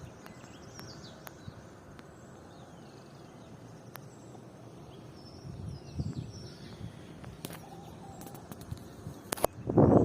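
Small birds chirping and calling repeatedly over a steady outdoor background hiss, with a loud burst of noise near the end.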